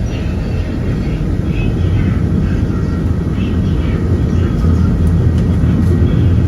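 Cable-hauled Peak Tram funicular car running uphill on its rails just after setting off, a steady low rumble that swells slightly toward the end.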